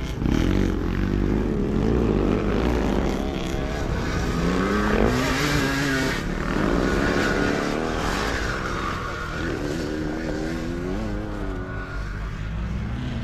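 Motocross sidecar outfits racing: several motorcycle engines revving, their pitch rising and falling again and again as the riders open and close the throttle, loudest about five seconds in.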